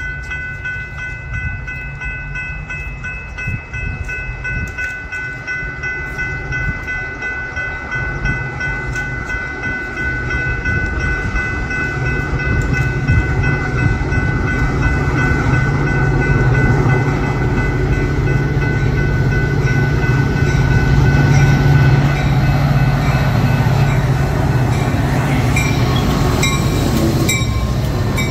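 A train passing close by: a steady high-pitched tone over a low rumble for the first half, then the rumble grows louder as the train draws level, with wheel clicks near the end.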